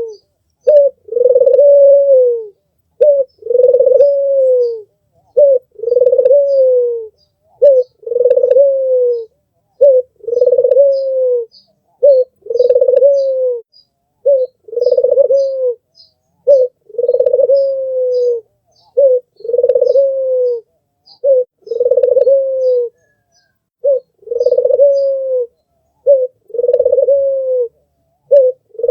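White puter (domestic Barbary dove) cooing over and over in a steady rhythm. Each call is a short note and then a long, slightly falling coo, repeating about every two seconds. Faint high chirps of small birds run behind it.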